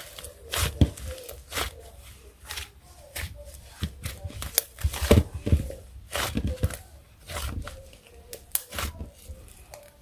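Close-up hand-handling sounds, an uneven run of sticky crackles, clicks and taps, some a second or more apart and some in quick clusters.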